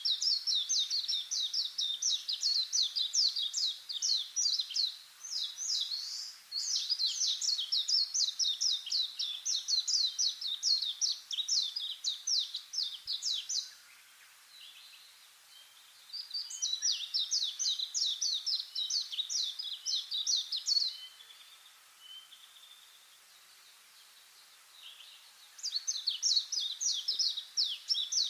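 High chirping calls in rapid series, about five sharp downward-sweeping notes a second, in bouts of several seconds separated by short pauses, with one longer lull in the middle.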